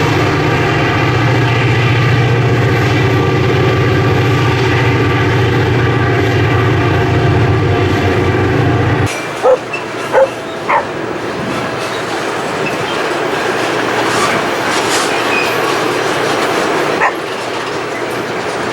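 Diesel freight locomotives running steadily under load, a loud, even engine drone. About nine seconds in the sound cuts off abruptly to a quieter scene, where a dog barks four times.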